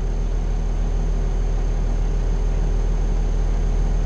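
The 2019 Pierce Saber fire engine's Cummins L9 diesel running with a steady low rumble, heard from inside the cab.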